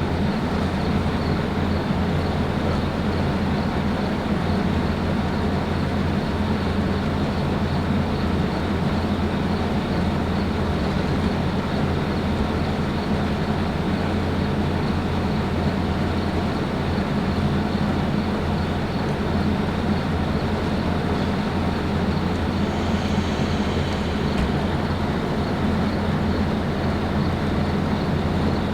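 A train running, with a steady rumble and a low, even engine drone.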